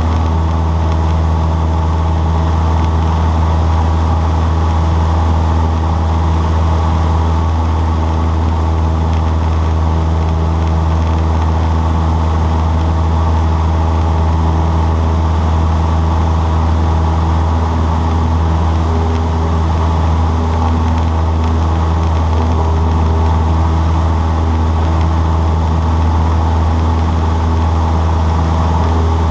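Cessna 152's four-cylinder Lycoming O-235 engine and propeller running steadily: a loud, even, low drone with a hum of steady tones above it and no change in speed.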